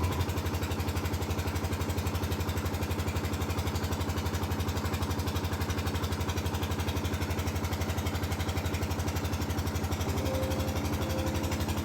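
Tractor engine idling with a steady, even chug of about ten beats a second; it starts and cuts off abruptly.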